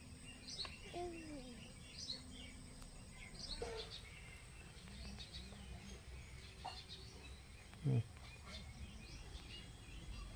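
Small birds chirping in short high calls over a steady outdoor background, with a brief, loud rising sound about eight seconds in.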